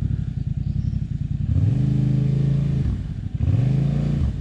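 Motorcycle engine running at low revs, then opened up twice, its pitch climbing and holding each time, with a brief dip between and a drop back near the end.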